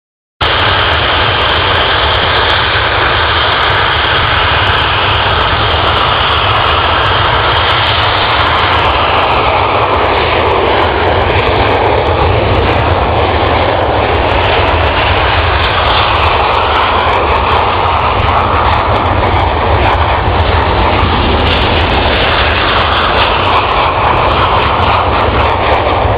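Aircraft engine noise, loud and steady, starting abruptly about half a second in, its tone slowly shifting as the aircraft flies.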